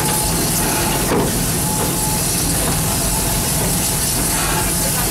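Ride train running along its track, heard from an open passenger car: a steady low rumble of the locomotive's engine and rolling wheels under a constant hiss. There is a brief knock about a second in.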